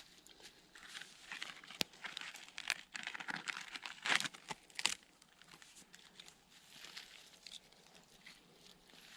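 Irregular rustling and crinkling with a few sharp clicks, loudest about four to five seconds in.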